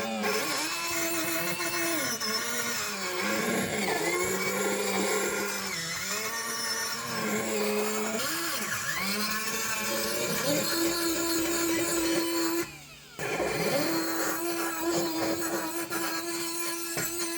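Electric power tool motor running, its pitch sagging and recovering again and again as it is loaded against the work, with a brief break about three-quarters of the way through.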